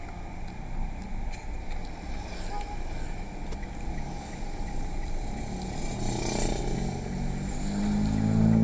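Low steady hum and rumble of a hall's sound system between phrases of a male Quran recitation, with a brief hiss about six seconds in; near the end the reciter's voice comes in on a long held low note, growing louder.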